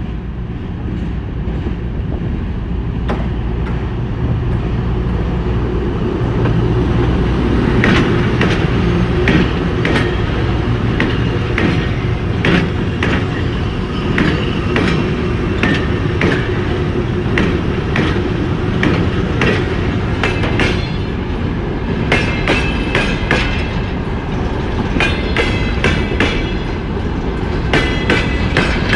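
Freight train hauled by two coupled VL11 electric locomotives rolling past. A steady low hum gives way to wheels clattering over rail joints as the wagons go by, with high-pitched wheel squeal through the last third.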